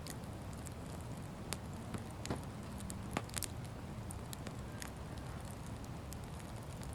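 Bonfire crackling: irregular sharp pops and snaps, a few louder ones in the first half, over a low steady rumble.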